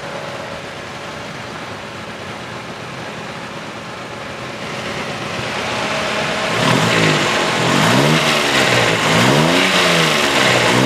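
Exhaust of a 1990 Daihatsu Charade CX heard at the tailpipe: the engine idles steadily, then from about two-thirds of the way in it is revved up and down several times in quick succession while the exhaust is checked for smoke.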